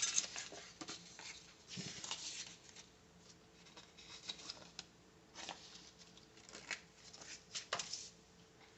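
Faint paper rustling and light taps at irregular moments as planner sticker sheets and pages are handled.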